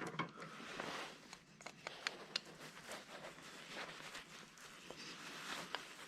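Faint handling noises: a few light scattered clicks and rustling, with no steady machine sound.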